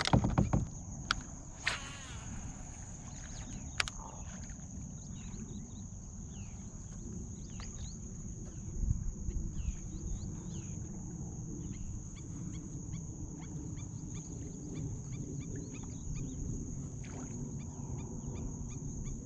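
Birds calling in the marsh: a long run of short, quick chirps over a steady high buzz and a low rumble, with a few sharp knocks in the first few seconds.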